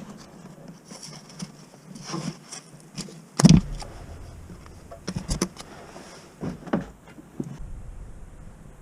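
A series of separate knocks and clunks from tools and parts being handled during a clutch job, the loudest and deepest about three and a half seconds in, with a few quicker knocks after it.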